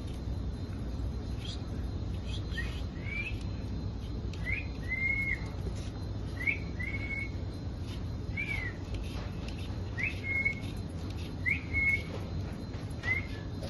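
Parrot calling with a short two-part whistle, a quick rising note then a held level note, repeated about seven times at roughly two-second intervals, over a low steady background rumble.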